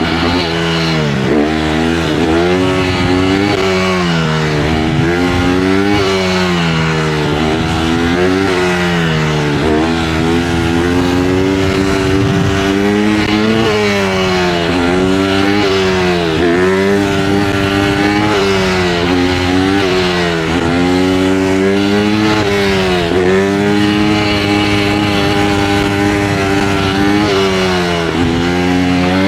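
Honda CRF150R dirt bike engine being ridden, revving up and dropping back again and again every second or few as the throttle opens and closes and the gears change.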